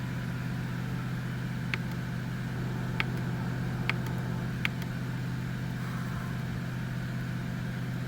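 2005 Mercedes S600's twin-turbo V12 running at a steady, slightly fast cold idle shortly after a cold start, before it warms and drops to normal idle. Four short clicks sound over it in the first five seconds.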